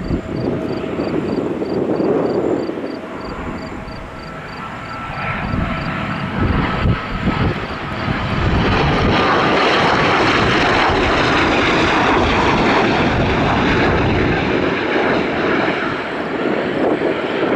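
Northrop T-38 Talon jet trainer's twin turbojets on final approach, the engine noise swelling to its loudest about halfway through as the jet passes close, with a high whine over the rushing noise. Wind gusts buffet the microphone.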